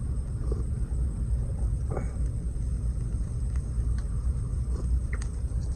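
Wood campfire burning, with a few scattered sharp crackles and pops over a steady low rumble.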